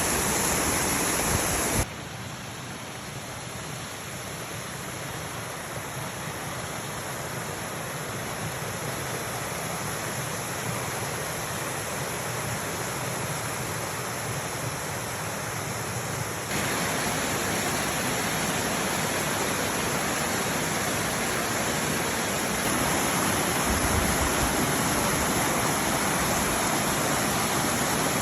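Steady rushing of rainwater, dropping sharply in level about two seconds in and jumping back up about sixteen seconds in, where the recording cuts between takes.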